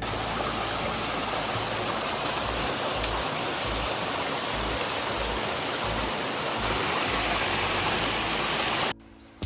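Steady rushing water noise, with some uneven low rumbles underneath, cutting off abruptly near the end.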